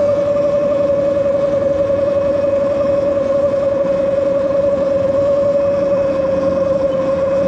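Electric bike's motor whining steadily under power at cruising speed, one high tone that sags slightly near the end, over wind and tyre noise.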